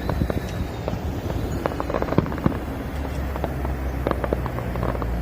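Fireworks going off: a rapid, irregular string of sharp cracks and pops over a low rumble.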